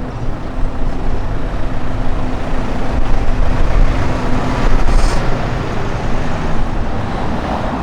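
Gusty wind buffeting the microphone as an uneven low rumble, over city street traffic noise with a faint steady engine hum for the first few seconds.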